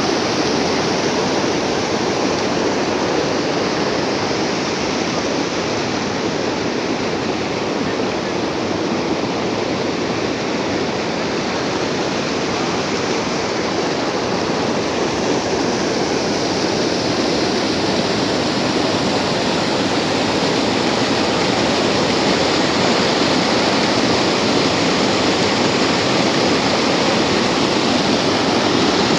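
Water pouring over an overflow weir after a tropical storm, a loud, steady rushing that swells slightly in the last third.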